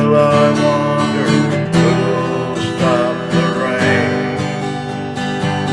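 Strummed acoustic guitar music.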